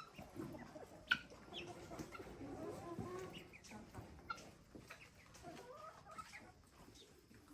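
Chickens clucking in short scattered calls, with a sharp knock about a second in.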